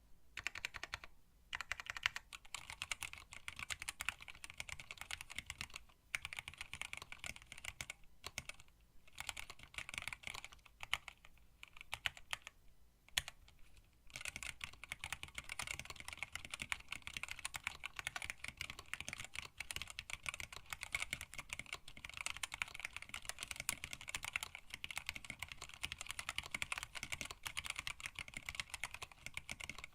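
Typing on a mechanical keyboard with Tealios linear switches and PBT keycaps in an acrylic case: rapid, continuous keystrokes with short pauses, growing faster and more continuous about halfway through.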